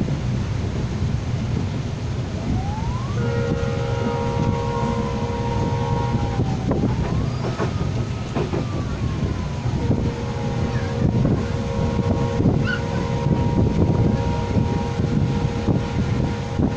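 Passenger train running with a steady rumble of wheels on the track. A horn with several notes at once sounds twice for a few seconds each, about three seconds in and again from about ten seconds in, with sliding tones in between.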